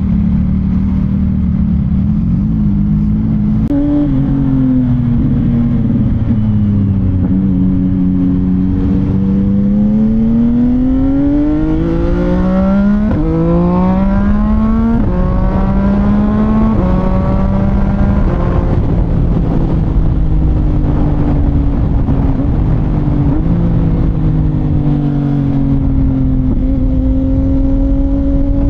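CFMOTO 675NK motorcycle's inline-three engine through a titanium full-system exhaust, pulling through the gears on the road. The engine pitch climbs and falls back several times, drops sharply at upshifts a little before and after the middle, then settles to a steadier cruise. Wind rushes underneath throughout.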